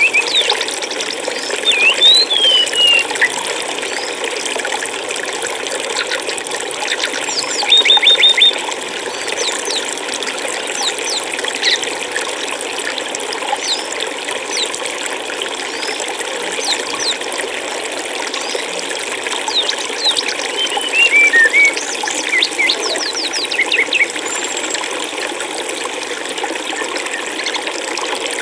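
Steady running water, a stream flowing and trickling, with small birds chirping and whistling over it now and then: a few whistled notes near the start, a quick run of notes about eight seconds in, and a cluster of chirps about twenty to twenty-four seconds in.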